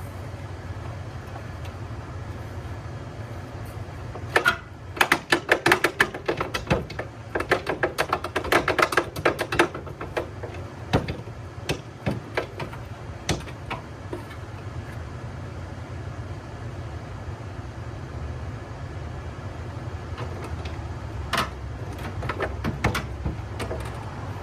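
A quick run of sharp clicks and knocks starting about four seconds in and lasting several seconds, then scattered single knocks, over a steady low hum.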